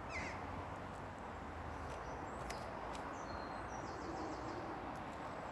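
Quiet outdoor garden background with birds calling, a few short high chirps near the start and again in the middle. Two faint clicks come about halfway through.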